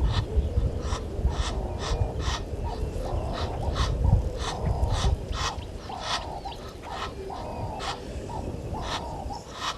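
Wild animal calls at a waterhole: many short, sharp, clicky calls, two or three a second at an uneven pace, over a low rumble that fades out about halfway through.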